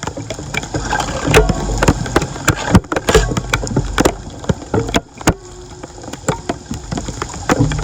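Irregular series of sharp knocks and clatter at uneven spacing, over a low rumble.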